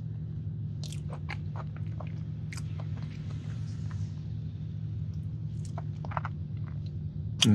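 Close-miked chewing of a cookies and cream cheesecake, with irregular wet mouth clicks and smacks over a steady low hum. One sharper, louder click comes near the end.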